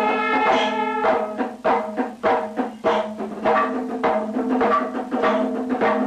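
Panchavadyam, the Kerala temple ensemble of hand drums, cymbals and horn, playing. A held pitched tone sounds throughout, and from about a second in, fast drum strokes come at roughly four or five a second.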